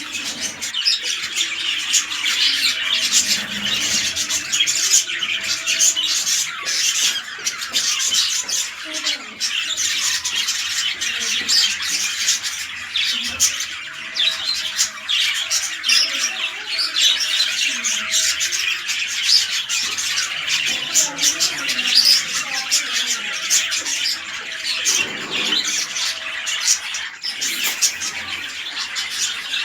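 Budgerigars chattering and squawking without a break, with many sharp calls overlapping.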